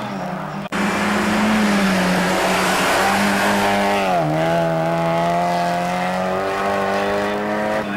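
Mazda MX-5 race car engine running hard at high revs, with road and wind noise. The sound cuts out suddenly and briefly just under a second in. About four seconds in the engine pitch drops, as at a gearchange or when lifting off, then holds steady.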